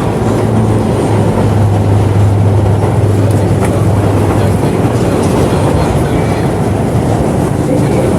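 An R211 subway train running on the track, heard from inside the car: a steady rumble of wheels on rail with a few clicks, and a low hum that sets in about half a second in and fades out after about four and a half seconds.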